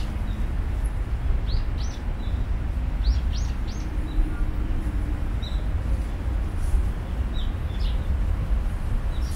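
Small birds giving short, high chirps in small groups of two or three, over a steady low rumble.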